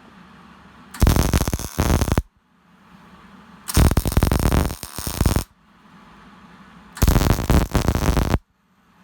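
Wire-feed (MIG) welder arc crackling in three separate bursts of one to two seconds each, with short pauses between them: a series of short stitch welds.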